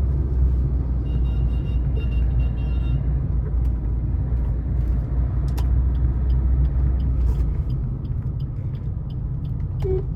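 Suzuki S-Cross 1.3 DDiS four-cylinder turbo-diesel and road noise rumbling steadily at highway speed, heard from the driver's cabin; the deepest part of the drone eases about seven and a half seconds in. A horn begins to sound right at the end.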